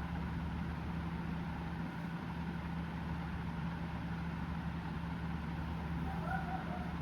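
A steady low mechanical hum, even and unchanging, with one brief soft chirp about six seconds in.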